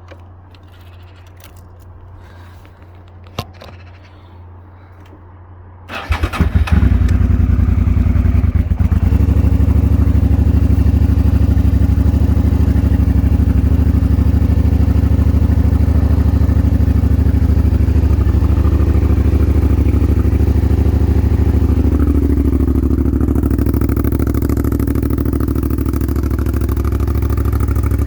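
Suzuki SV650S 645 cc V-twin cold-started: a single click, then about a second of starter cranking some six seconds in before the engine catches and settles into a steady idle. About two-thirds of the way through, the idle note shifts.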